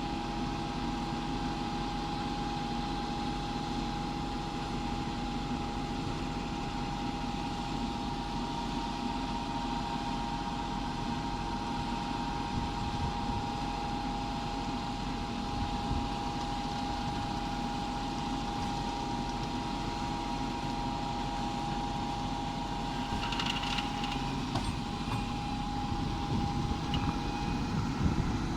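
New Holland T7 tractor engine running steadily, with a constant whine over it. Near the end come a few knocks and rattles.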